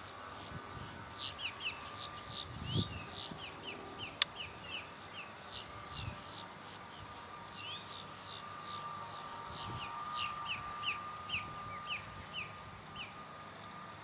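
A bird calling in two runs of short, quick down-slurred notes, about three to four a second, over a steady thin tone.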